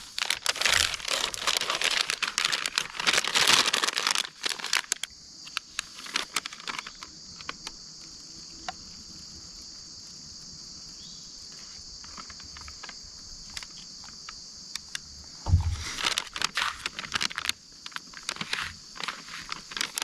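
Plastic MRE packaging and its flameless heater pouch crinkling and rustling as they are handled. It stops about five seconds in, leaving a steady high insect buzz with a few light clicks. After a low bump near the end, the crinkling starts up again.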